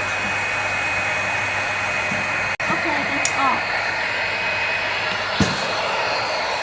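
Bottle air washing machine running with a steady rush of air and a low hum, with a short thump about five seconds in.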